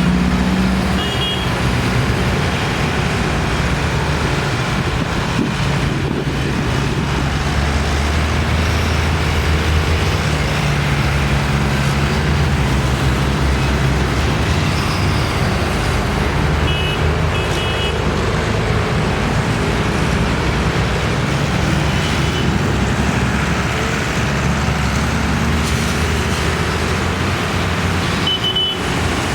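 Tractor engines running steadily as tractors drive past in a slow procession, their low engine notes shifting as each one goes by. A few short, high-pitched beeps sound now and then.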